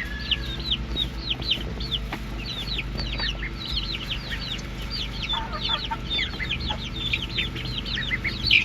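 A flock of chickens peeping and chirping over and over, many short high falling calls a second, with some lower clucks around the middle, as the birds feed on live cicadas. A steady low hum runs underneath.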